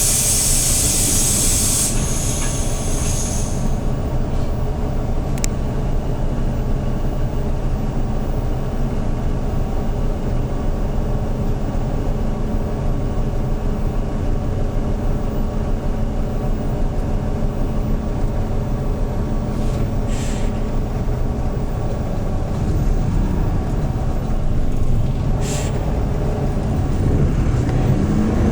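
Hyundai New Super Aero City CNG bus's engine running steadily, heard from inside the bus. A loud hiss of compressed air comes in the first couple of seconds, with shorter air hisses about twenty and twenty-five seconds in. Near the end the engine note rises as the bus accelerates.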